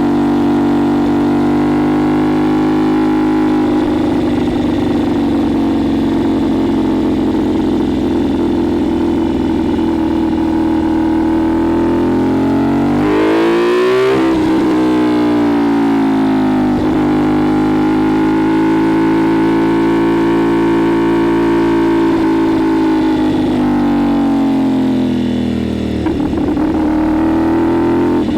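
CFMoto 450SS parallel-twin engine through a Leo Vince LV-10 slip-on exhaust, under way on the road. The note holds steady, then rises sharply about halfway through and drops straight back. It swells and falls gently once more, then dips briefly and picks up again near the end.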